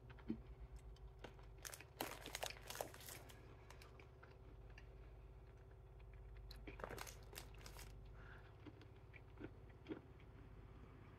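Faint crunching of a person chewing a honey-glazed roasted cashew, with clusters of crackly crunches about two seconds in and again around seven seconds.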